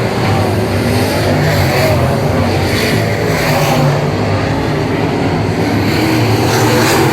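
V8 Late Model stock car engines running hard at racing speed, their note rising and falling.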